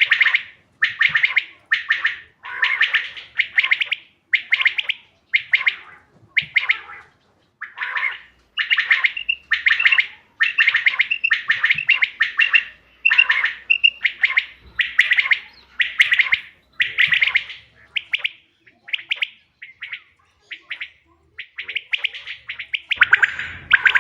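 Quail (bater) calling, short sharp notes repeated about twice a second in runs with brief pauses, the kind of recording played as a hunting lure.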